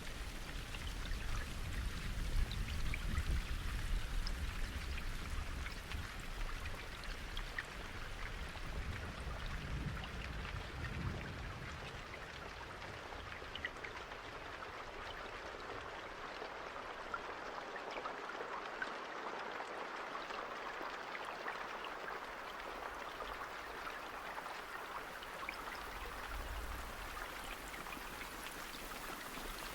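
Steady rain falling, a dense hiss dotted with countless small drop ticks. A low rumble under it through about the first twelve seconds fades away after that.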